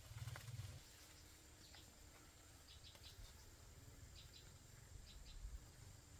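Faint rural quiet with a few short, high bird chirps in small groups of two or three.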